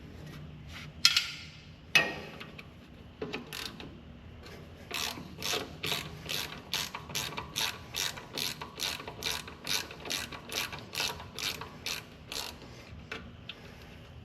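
Hand ratchet wrench clicking in an even rhythm, about three strokes a second, turning out the bolts of a truck's rear brake wheel cylinder. Two sharp metal clanks come first, about a second apart.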